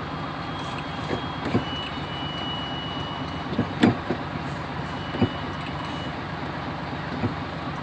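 Sinotruk truck's diesel engine idling steadily, with a handful of sharp clicks and knocks over it, the loudest about four seconds in.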